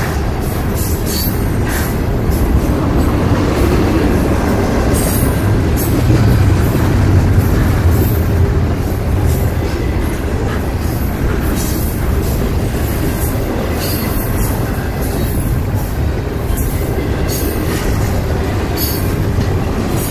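Double-stack intermodal container train's loaded well cars rolling past a grade crossing: a steady, loud rumble of steel wheels on rail, with wind buffeting the microphone.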